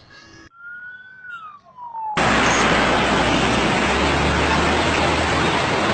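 A faint siren wail sliding down in pitch, then, about two seconds in, a sudden cut to a loud, steady rushing noise that lasts to the end.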